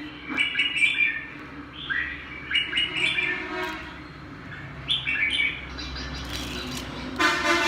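A songbird singing short phrases of quick chirps and whistles, repeated several times with short pauses. About seven seconds in, a loud, sustained horn-like tone with a rich, buzzy pitch sets in.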